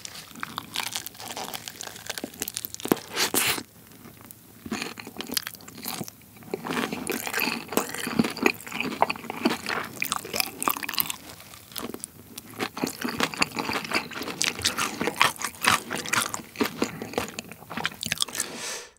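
Crispy honey-glazed fried chicken being bitten and chewed close to the microphone: dense crackly crunching with several loud crunches and a brief lull about four seconds in.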